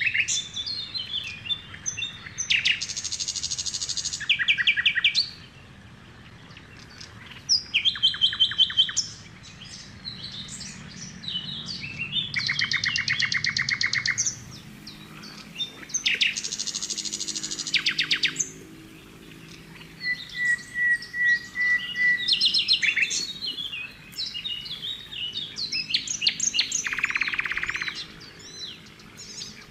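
Wild birds singing: many short chirps, with fast, dry trills about two seconds long repeating every few seconds, and a steady whistled note about two-thirds of the way through.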